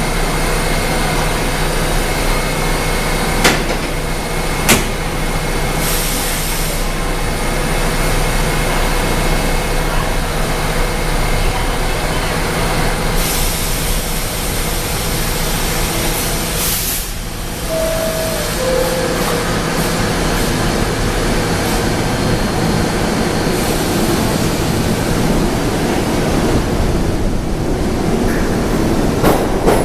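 An R68A subway train standing at an underground platform, its equipment giving a steady hum, with a couple of sharp clicks and a few bursts of hissing. About eighteen seconds in, a two-note falling door chime sounds, the signal that the doors are closing before departure.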